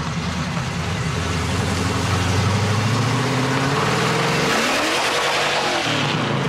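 Sports car engine accelerating hard, its revs climbing steadily, then rising and falling in pitch in the second half as it speeds off.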